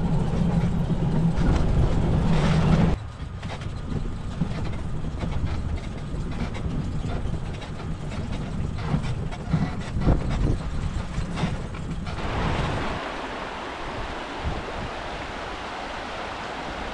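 Electric UTV driving over a rough track: a steady motor hum with rattling for the first three seconds, then lower rumbling and knocking as it bumps along. In the last few seconds a steady rush of river water takes over.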